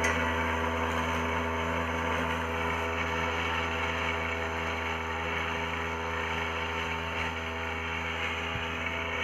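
Small petrol engine of a wheel hoe running at a steady speed.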